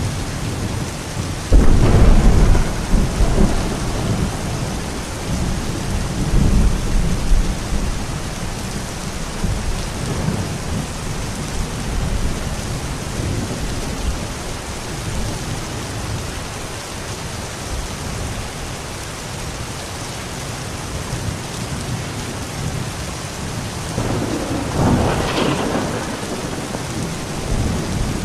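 Steady rain with thunder: a sudden loud thunderclap about a second and a half in that rumbles away over several seconds, and a second, softer roll of thunder near the end.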